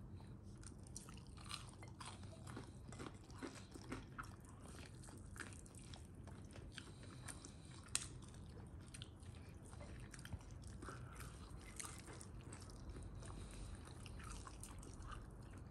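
Faint close-up biting and chewing of a piece of KFC fried chicken eaten off the bone, with small irregular clicks and crackles.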